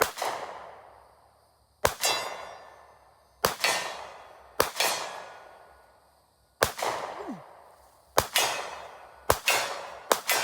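Handgun, a .40-calibre Glock pistol, fired about eight times at an uneven pace, one to two seconds apart. Each shot echoes and fades, and several are followed by a metallic ring of rounds striking a steel target.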